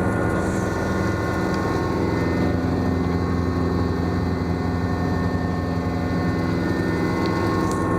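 Schweizer S-300CBi helicopter's four-cylinder piston engine and rotor running steadily.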